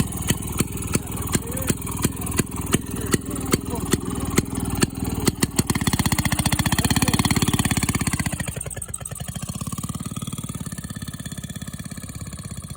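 Small minibike engine chugging with slow, separate firing beats, then revving up for a couple of seconds before dropping back to a steadier, quieter run. It is a small engine that barely has enough power.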